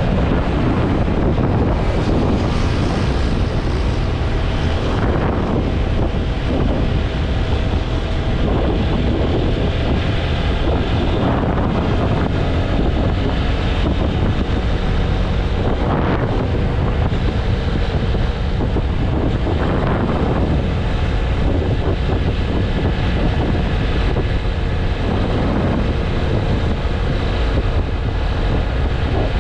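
Wind buffeting the microphone of a motorcycle riding at speed, with the steady drone of the TVS Apache RTR 160 4V's single-cylinder engine beneath; the rush swells briefly a few times.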